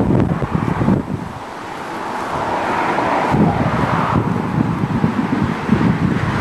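Wind buffeting the camcorder's built-in microphone: a gusty rumble that drops off about a second in, then builds back up.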